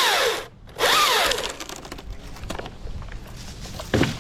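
Cordless electric chainsaw blipped twice: the motor spins up and winds down each time, stopping completely in between. A single sharp knock near the end.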